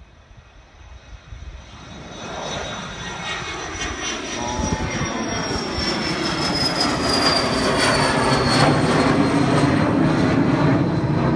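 Airplane taking off: engine noise builds from faint to loud over several seconds and holds, with a high whine slowly falling in pitch as the aircraft passes.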